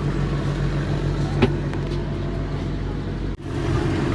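Fishing boat's engine running with a steady low drone. A single sharp click sounds about a third of the way in, and the sound drops out for an instant near the end.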